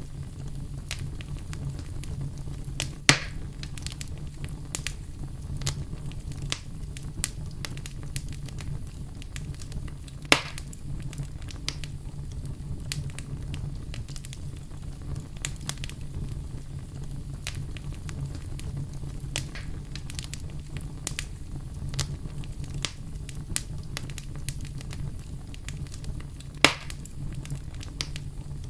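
Wood fire crackling, with frequent small ticks and pops over a steady low rumble. Three louder sharp pops stand out: about 3 seconds in, about 10 seconds in, and near the end.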